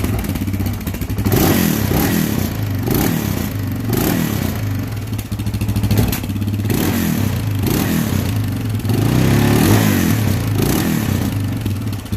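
Honda TRX700XX ATV's single-cylinder engine, breathing through its stock muffler, revved several times in short throttle blips, its pitch rising and falling back toward idle between each.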